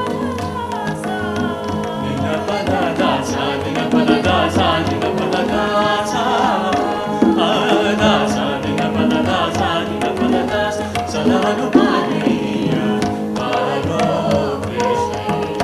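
Live Indian fusion band playing a Carnatic-style piece: a wavering, ornamented melody over guitar, with tabla and drum-kit strokes keeping a steady beat.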